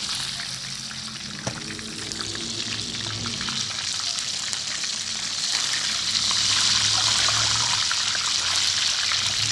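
Chicken pieces deep-frying in hot oil in a discada: a steady sizzle with scattered crackles and pops, growing louder about halfway through, with a low hum underneath.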